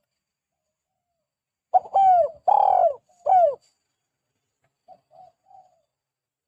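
Spotted dove (tekukur) singing one cooing phrase about two seconds in: a short note, two long drawn-out coos and a short closing coo. A few faint short coos follow near the five-second mark.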